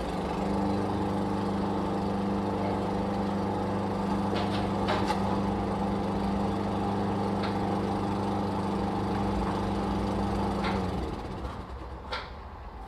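Lawn mower engine running at a steady pitch, then stopping about eleven seconds in. A few sharp clicks are heard along the way and after it stops.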